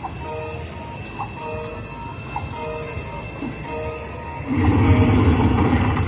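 Casino slot machine sounding a short electronic chime over and over, about once every second and a quarter. About four and a half seconds in it breaks into a louder, fuller burst of machine sound.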